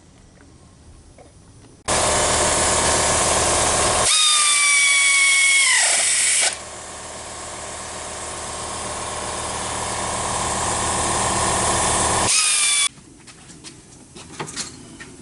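A power tool running in the workshop for about eleven seconds. About halfway in, a whine falls in pitch as it slows, then a quieter hissing run slowly builds before a brief whine and a sudden stop.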